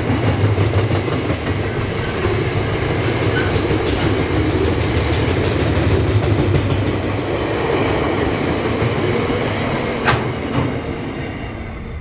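Freight train wagons rolling past on the rails in a steady rumble, with two short sharp clicks about four and ten seconds in; the sound eases near the end.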